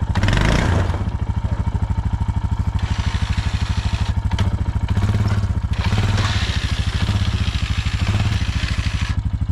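An engine idling steadily, with a rapid, even chugging beat.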